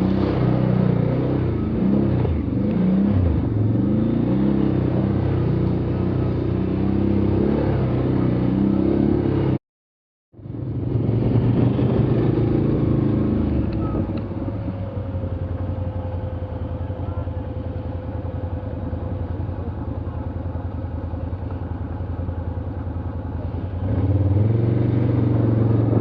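A motor vehicle's engine running while under way, its pitch rising and falling with the throttle. About ten seconds in the sound cuts out for a moment. After that the engine runs steadier and a little quieter, then louder again near the end.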